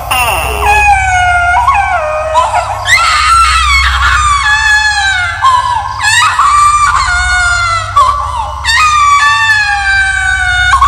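A baby crying and screaming in a run of shrill wails, one after another, each sliding down in pitch, over a low steady drone.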